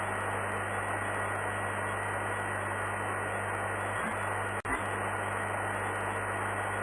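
Steady static hiss of an open air-traffic-control radio channel, with a faint steady tone and hum under it. A brief click and dropout comes about four and a half seconds in.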